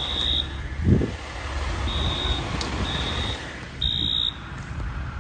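High-pitched electronic alarm sounding in short beeps at uneven spacing, over a steady low engine rumble, with a single thump about a second in.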